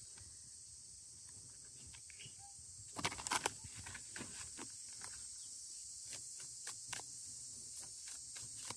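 A deck of oracle cards being shuffled by hand: a run of short, irregular clicks and slaps that starts about three seconds in, the first few the loudest. Under it, a steady high chirring of crickets.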